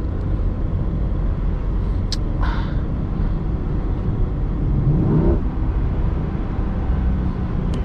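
Cabin noise of a C8 Corvette's V8 and tyres driving on a slushy highway: a steady low drone, with a short click about two seconds in and a brief rising tone about five seconds in.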